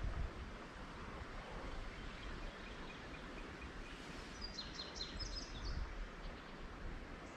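A songbird singing a short run of quick, high notes about four and a half seconds in, with fainter evenly spaced chirps before it, over steady outdoor background noise.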